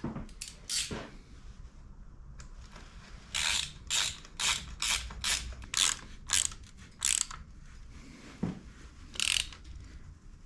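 Hand ratchet wrench being worked back and forth on a fastener: a run of about nine short ratcheting rasps at about two a second, then one more near the end, with a few scattered clicks before.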